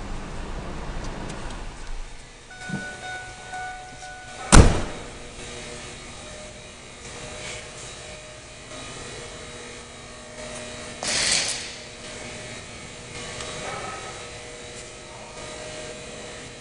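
A single loud, sharp slam about four and a half seconds in, like a pickup truck door being shut, over faint steady background tones. A short rushing noise follows about eleven seconds in.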